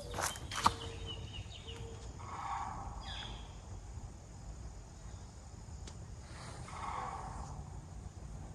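Sandhill cranes calling in the distance: rolling, rattling calls, very prehistoric sounding, heard twice a few seconds apart with a third starting near the end. A few footsteps crunch at the start.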